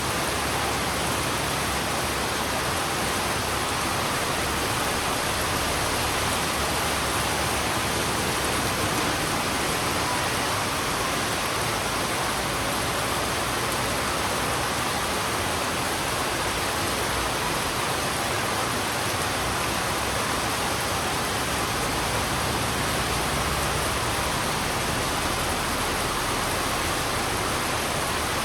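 Heavy rain falling steadily on a road, an even, unbroken hiss with no separate drops or other events standing out.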